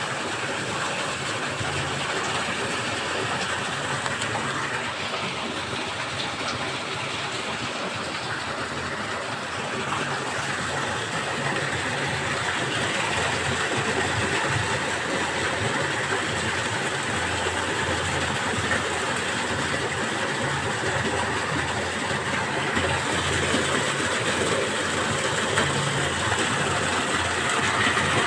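Water gushing into a well from newly opened underground springs: a steady rushing noise that grows a little louder about ten seconds in.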